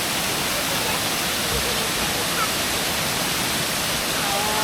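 Waterfall rushing, a steady even roar of falling water. Faint voices are heard briefly near the end.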